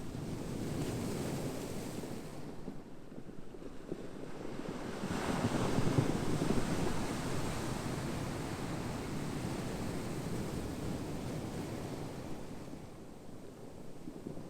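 Ocean surf: waves washing in as a steady rushing that swells to its loudest in the middle, then eases off.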